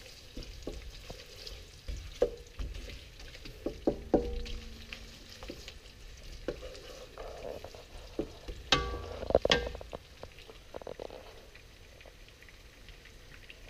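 Onion slices frying with a gentle sizzle in oil in a non-stick wok that is still heating up, stirred and scraped with a wooden spatula. The spatula gives scattered clicks and knocks against the wok, with a few sharper knocks a little past the middle.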